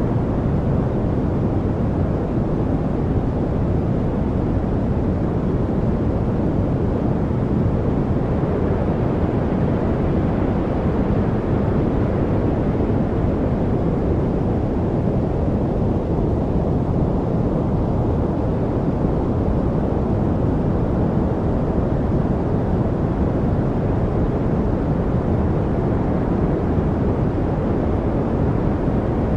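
Steady rushing noise from a study noise track, heavy in the low end and dull rather than hissy, swelling gently and easing back once or twice. No birds, trickles or other distinct sounds stand out.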